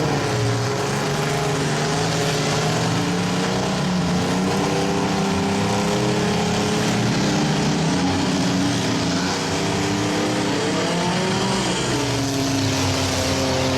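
Engines of several demolition derby minivans, mini trucks and SUVs running and revving at once, their pitches rising and falling as they drive around the arena.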